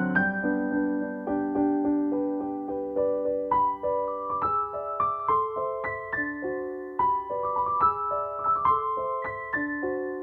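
Soft background piano music: a slow melody of single struck notes over held lower notes.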